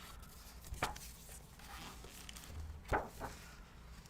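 A few soft taps and rustles of a picture book being handled, over quiet room tone.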